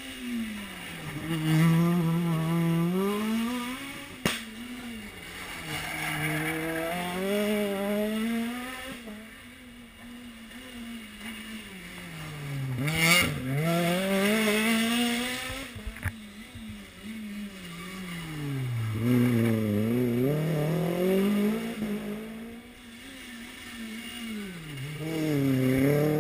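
Rally car engine working hard on a stage, revving up and dropping back again and again as the driver accelerates, shifts and lifts off for corners. It is loudest as the car passes about 13 seconds in, with another hard run up near the end.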